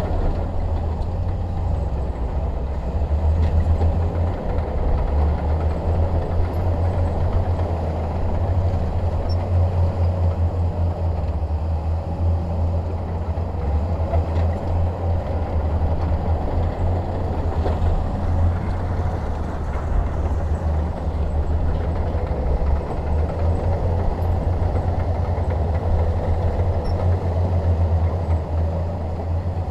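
Diesel engine of a Shantui DH17 bulldozer running steadily under load, a constant low drone.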